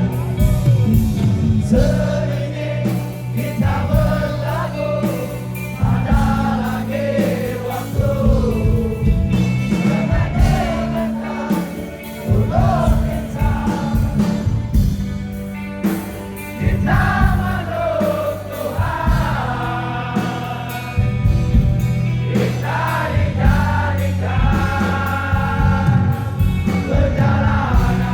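Live rock band music: singing over electric guitar, bass and drums, loud and continuous.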